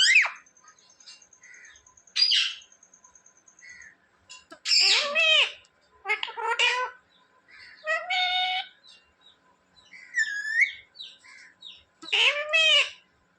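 A ringneck parrot gives a series of about six short pitched calls, a second or two apart.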